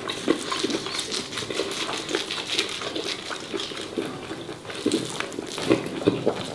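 Wet chewing and mouth sounds of someone eating braised pork close to the microphone, dotted with many small clicks.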